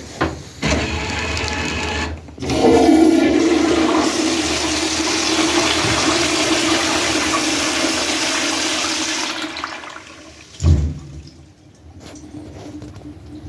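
Toilet flushing: a click, then a loud rush of water that runs for several seconds and fades about ten seconds in. A thump follows, then quieter running water with a faint steady tone.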